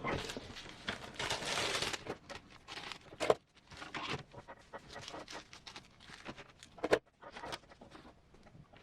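Hands working with small plastic parts: rustling and scraping for the first couple of seconds, then a string of irregular light clicks and taps, with a sharper knock about three seconds in and another near seven seconds.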